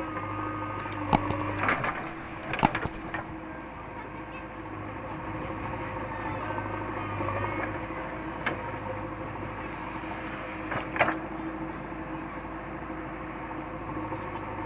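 Diesel engine of a JCB 3DX backhoe loader running steadily, with a few sharp knocks in the first three seconds and two more later.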